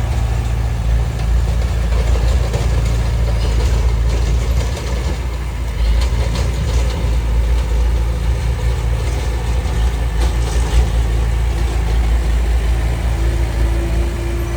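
Diesel engine of heavy earthmoving equipment running steadily with a low rumble, with scattered knocks and clatter; a steady whine joins in near the end.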